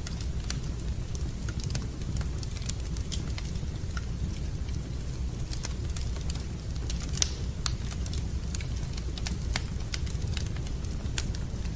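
Wood fire burning in a fireplace: irregular crackles and pops over a steady low rumble, with one sharper pop about seven seconds in.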